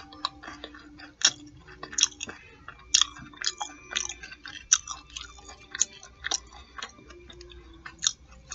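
Close-up chewing of fish nuggets and fries: wet mouth smacks and crunches at irregular intervals, about one or two a second.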